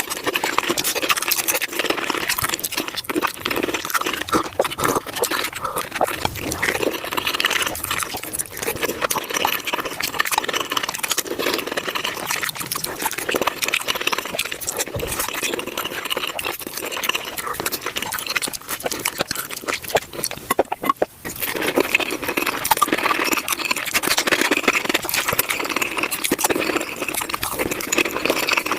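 Close-miked mouth sounds of someone biting and chewing tacos, sped up about five times, so the chewing becomes a dense, fast stream of clicks and smacks. There is a brief lull about two-thirds of the way through.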